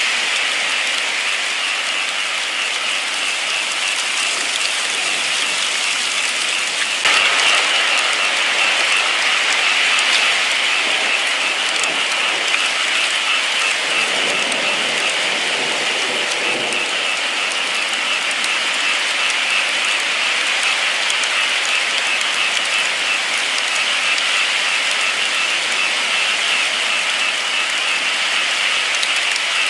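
Steady heavy rain, a dense hiss of drops. About seven seconds in it turns abruptly a little louder, and around the middle there is a brief deeper swell.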